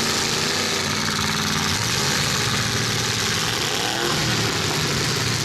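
Demolition derby car engines running and revving as the cars manoeuvre in the arena.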